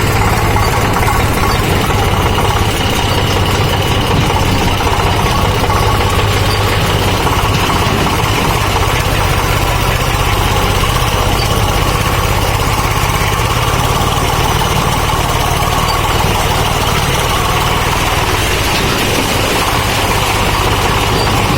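Eicher 485 tractor's diesel engine running steadily.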